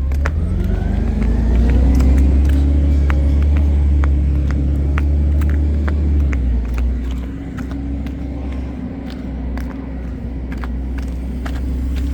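Garbage truck engine revving up over the first couple of seconds and holding high revs, then dropping back to a lower steady drone about six seconds in, with scattered short clicks and clanks.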